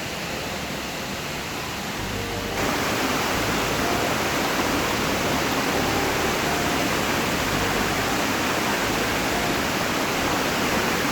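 Waterfall rushing: a steady noise of falling water that gets abruptly louder about two and a half seconds in.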